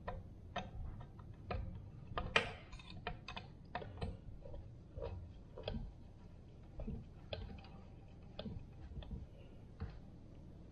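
Irregular light clicks and taps of a hand tool working the T27 Torx screws on a Stihl 024 chainsaw's muffler, with one louder click about two seconds in.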